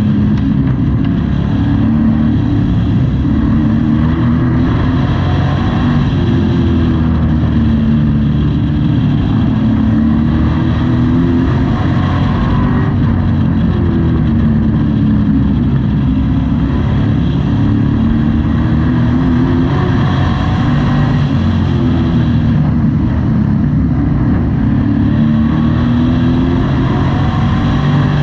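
Race truck engine heard from inside the cab at racing speed, loud and steady, its pitch repeatedly rising and falling as it lifts and accelerates around the short oval.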